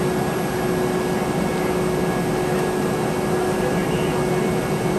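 Steady cabin noise inside a Boeing 717-200 airliner: an even rushing hum with a constant low tone running through it.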